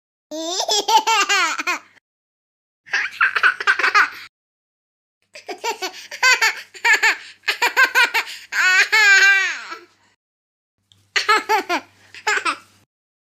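A baby laughing in short bursts of quick, high-pitched giggles, four bouts in all, with dead silence between them.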